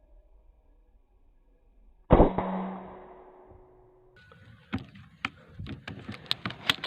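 A single sharp air-rifle shot about two seconds in, with a ringing tail of about a second. It is followed by an irregular run of sharp clicks and knocks that grows denser near the end.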